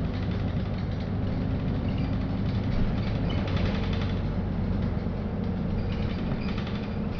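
Interior of a LiAZ-5292.65 city bus under way: a steady engine drone and road noise, with bursts of cabin rattling about halfway through and again near the end.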